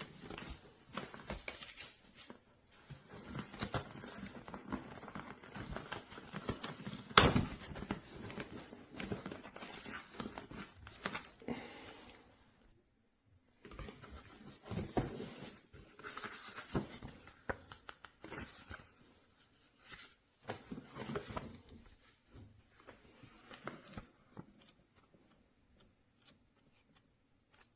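Close-up handling noise: rustling, crinkling and irregular clicks and taps, with one sharp knock about seven seconds in. It thins to a few faint ticks near the end.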